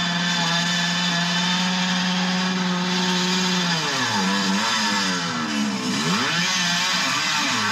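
Yamaha DT 200's two-stroke single-cylinder engine held at high revs during a rear-wheel burnout, steady for about four seconds, then the revs drop and rise and fall several times as the throttle is worked.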